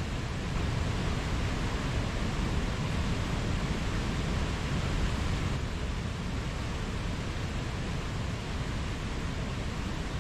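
Mountain stream flowing: a steady rush of running water with no distinct splashes, swelling slightly for a few seconds after about half a second in.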